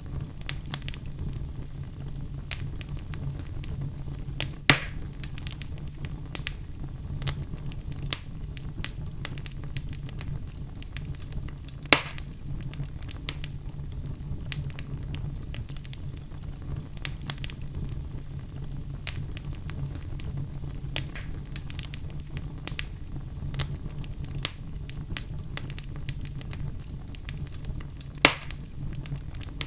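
Log fire burning in a fireplace, crackling with frequent small snaps over a steady low rumble. Three louder pops stand out, about 5, 12 and 28 seconds in.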